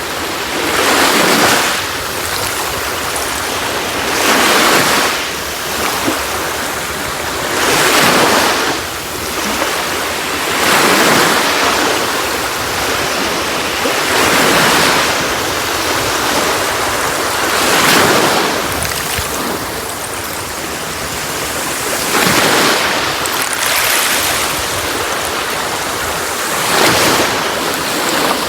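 Sea waves washing onto a beach, each swell rising and falling away every three to four seconds over a steady rush of surf.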